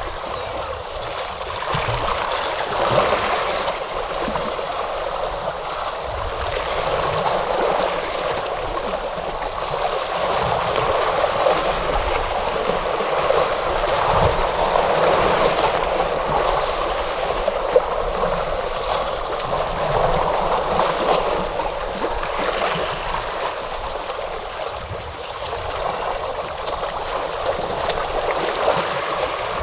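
Ocean waves washing on a shore: a continuous rush of water that swells and eases every few seconds.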